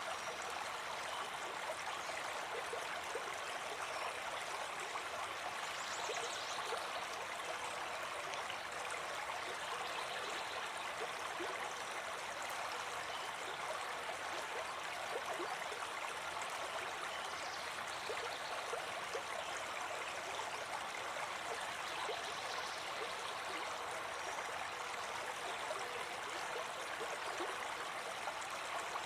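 River water flowing in a steady, continuous rush, with small gurgles and trickles running through it.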